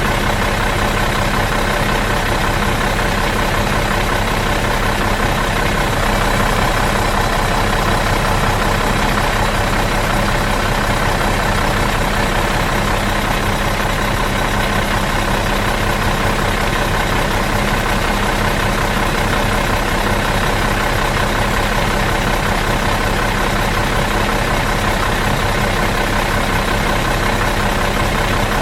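Bus engine idling out of gear, a steady, even rumble with a constant hum and no change in speed.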